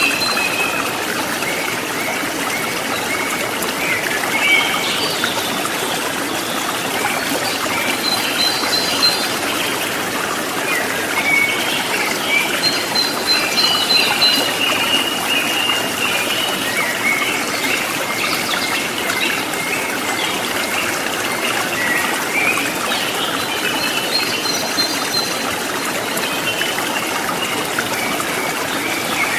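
Water trickling and splashing steadily, like a small stream, with short high chirps of birds calling over it on and off.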